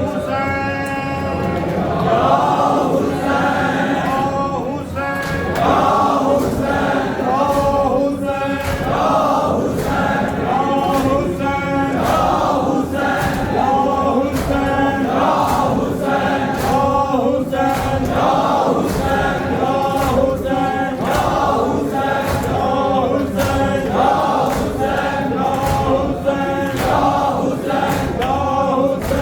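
A group of men chanting a Muharram noha (lament) together, with repeated sharp beats through the chant.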